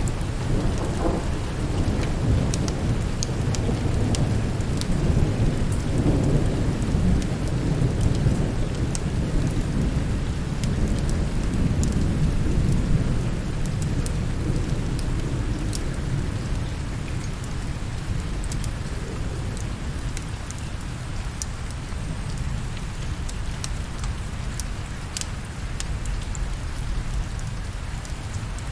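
Steady rain with a long low roll of thunder that rumbles through the first half and fades away, and scattered sharp ticks.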